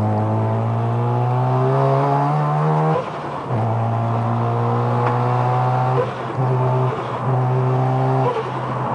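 Mazda RX-7 FD3S's single-turbo 13B twin-rotor rotary engine accelerating hard, its note climbing in pitch, then cutting out briefly about three seconds in as at a gear change. It pulls again, with several short lifts off the throttle in the second half.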